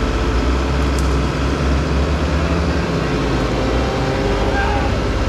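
Heavy-equipment diesel engine running steadily with a deep, pulsing rumble during a machine recovery.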